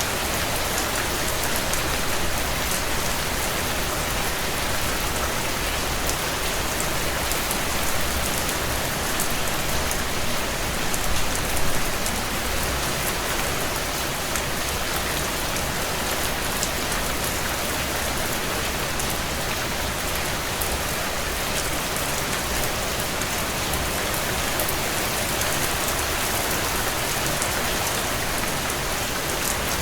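Heavy rain falling steadily on a tin roof: an even hiss of rain with individual drops ticking through it, briefly a little louder about ten to twelve seconds in.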